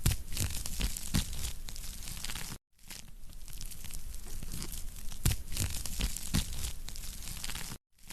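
Wood fire crackling in a fireplace: a dense, steady crackle with frequent sharp pops. The sound cuts out to silence briefly twice, once about two and a half seconds in and once near the end.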